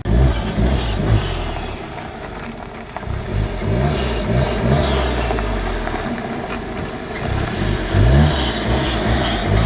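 Car engine accelerating hard, its pitch rising in several sweeps as it pulls up through the revs, with a steady rumble between the pulls.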